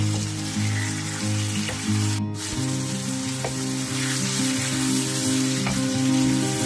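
Liver and onions sizzling steadily in a frying pan as they are stirred with a wooden spatula, with a few light taps of the spatula against the pan. Background music with low sustained notes plays under the sizzle.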